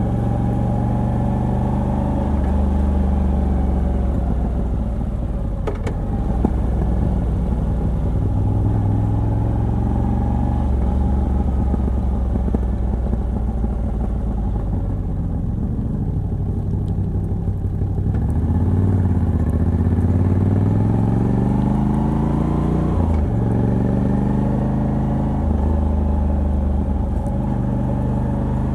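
Moto Guzzi V85TT's air-cooled transverse V-twin running under way, on the stock exhaust with a Mistral de-cat pipe. The engine note holds fairly steady, then rises in pitch about eighteen seconds in, breaks off briefly near twenty-three seconds and settles again.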